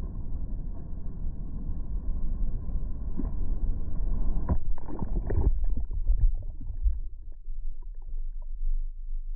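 Heavy ocean surf: waves breaking and rushing in a steady low rumble, with a louder burst of crashing about halfway through that then eases off.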